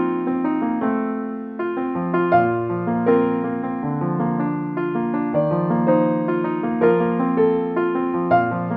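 Gentle background piano music, soft chords and a slow melody played with the notes held and overlapping.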